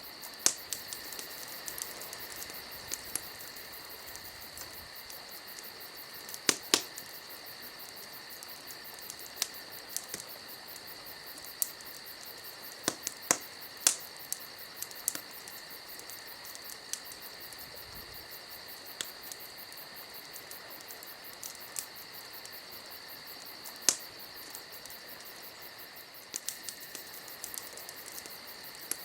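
A fire crackling, with irregular sharp pops several times, over a steady high chirring like a cricket chorus.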